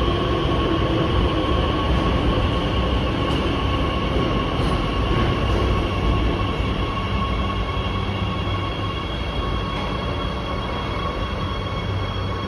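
Beijing Subway train in motion: a steady rumble of wheels and running gear with a thin, steady high whine over it, easing slightly toward the end.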